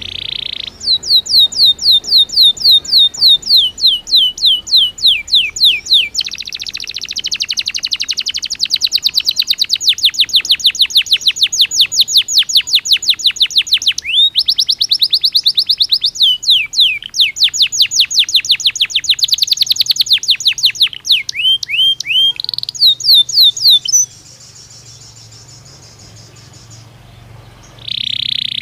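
Domestic canary (Belgian canary) singing. It gives runs of quickly repeated falling whistles and long, fast rolling trills. The song stops about 24 seconds in, and a single short note comes near the end.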